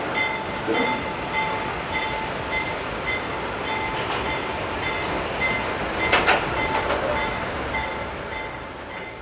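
Passenger train coaches rolling past on the track, with a ringing tone that repeats about every half second and a few sharp clicks from the wheels partway through; the sound fades near the end.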